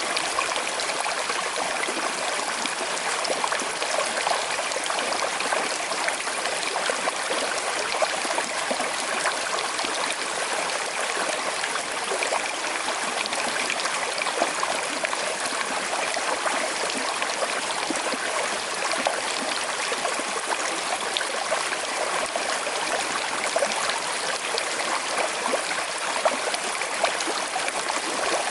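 A small river flowing steadily with a slight current, a constant rush of water with fine trickling and bubbling.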